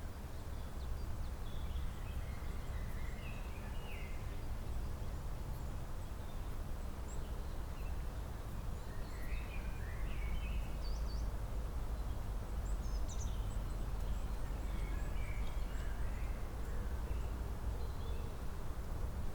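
Songbirds chirping in short, scattered calls over a steady low rumble, with the calls coming thicker in the middle of the stretch.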